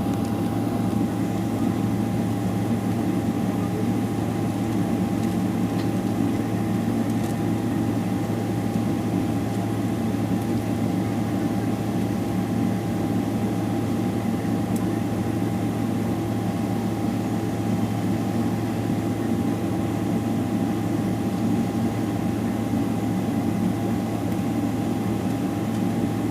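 Steady cabin noise inside a Boeing 777-300ER with its GE90 engines running at a constant setting: a low drone with a steady whine, holding level throughout.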